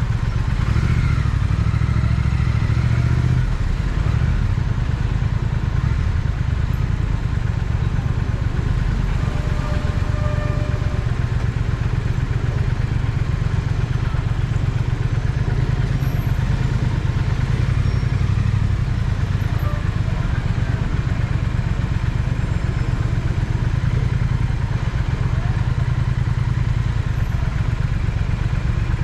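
Triumph Speed Twin's parallel-twin engine running steadily while the motorcycle is ridden, a continuous low rumble with no marked revving.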